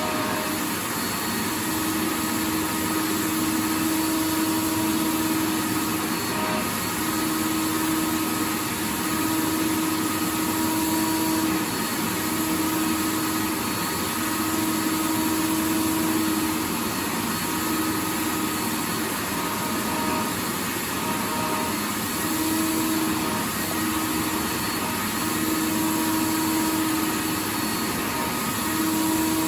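Vacuum cleaner running steadily: a dense, even rush of air with a motor hum whose tone fades in and out every second or two.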